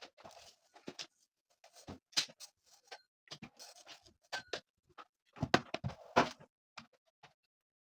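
Household objects being handled and set down: irregular small clicks, knocks and rustling, with two louder knocks about five and a half and six seconds in.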